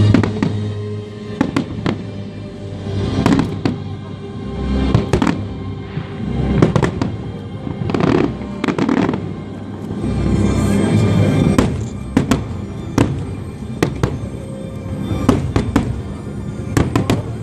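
Fireworks display: many sharp bangs and crackling bursts at irregular intervals, several a second at times, over music playing throughout.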